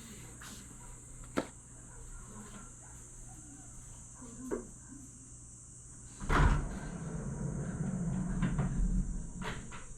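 A steady high-pitched chorus of night insects in the grass, with a couple of sharp clicks. About six seconds in, a sudden low rumble with knocks starts and runs louder than the insects.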